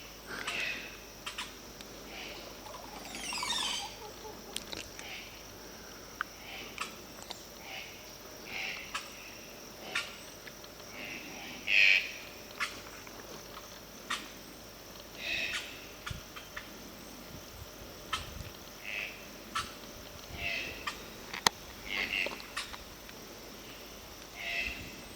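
A bird singing short, clear phrases every second or two, with one falling call about three seconds in. A steady high-pitched hiss runs underneath, and a few sharp clicks sound here and there.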